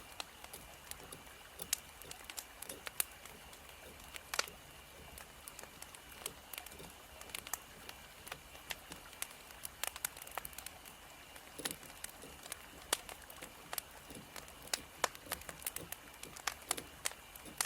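Wood fire burning, with irregular sharp crackles and pops over a soft steady hiss.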